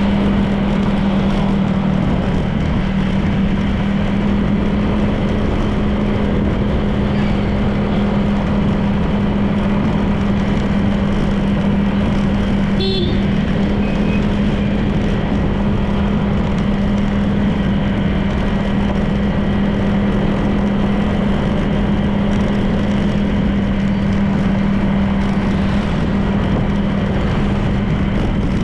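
Honda PCX 160 scooter's single-cylinder engine running at a steady cruise, with steady road noise. A short beep about halfway through.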